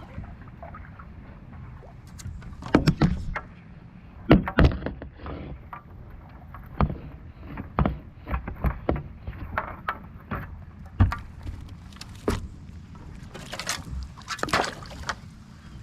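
A kayak paddle splashing and knocking against a kayak hull, with irregular clattering knocks, several of them louder, over a low steady wash of water.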